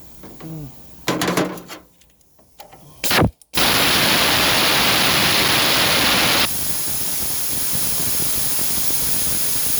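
A few metal clinks and knocks, then about three and a half seconds in a loud, steady spraying hiss starts; it drops a step in level a few seconds later and cuts off sharply at the end.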